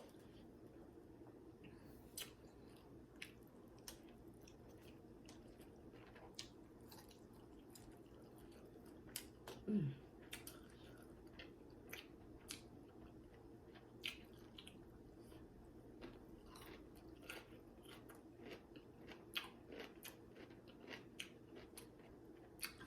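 Close-miked eating sounds: a person chewing food, with quiet, scattered wet clicks and small crunches from the mouth. A short falling vocal hum about ten seconds in is the loudest sound.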